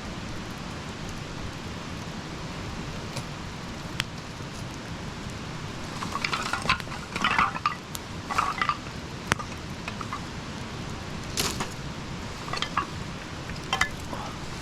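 Campfire burning with a steady hiss and a few sharp pops, joined about halfway through and again near the end by bursts of light clinking and rattling.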